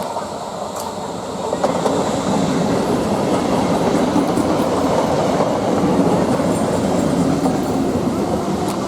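Indian Railways electric multiple unit local train running on the rails with a steady rumble and some clickety-clack, getting louder about a second and a half in.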